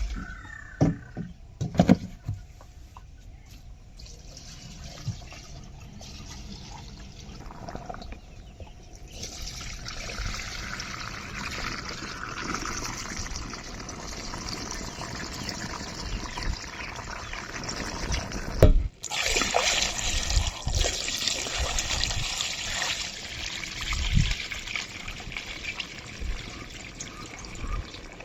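Diesel fuel being poured into a Kubota MU 5502 tractor's tank: a steady rush of liquid that starts about nine seconds in and breaks off briefly partway through, after a few knocks at the start.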